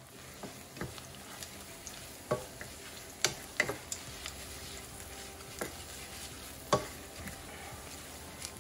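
Food sizzling as it fries in a pan while it is stirred, the utensil knocking against the pan several times at irregular moments.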